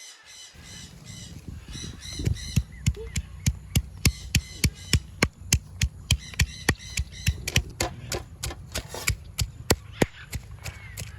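Rapid, steady chopping or pounding strikes on food, about two to three a second, starting about two seconds in, as ingredients for momo filling are crushed. Birds squawk in the background.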